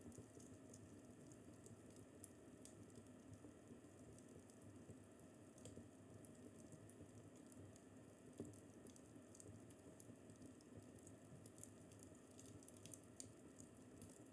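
Faint crackling fireplace: a low steady rumble with small, irregular pops and crackles, and a couple of sharper pops about 8 and 11 seconds in.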